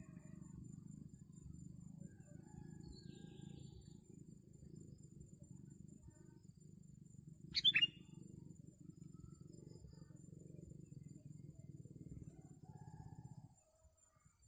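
A single short, sharp bird call with quick falling notes about eight seconds in, over a steady low rumble that stops shortly before the end.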